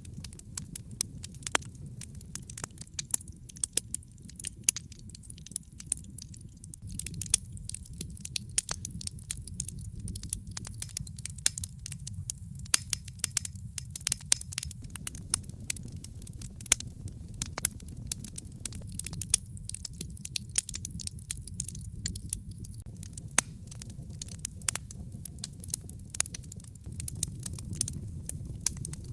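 Wood fire crackling and popping in a fireplace: many sharp, irregular pops over a steady low rumble of the burning fire.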